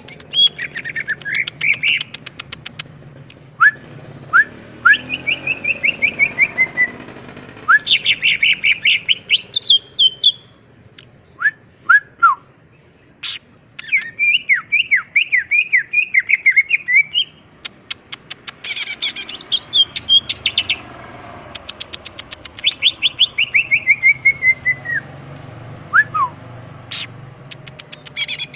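Cucak ijo (green leafbird) singing a loud, varied song: fast rattling trills, runs of quick chirps that step down in pitch, and sharp single whistled notes, in bursts separated by short pauses.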